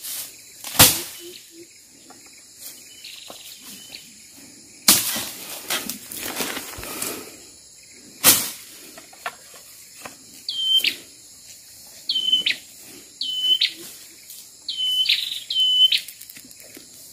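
Three sharp knocks, the first about a second in and the loudest, then a bird calling: a short high call with a rising flick, repeated about six times over the last several seconds.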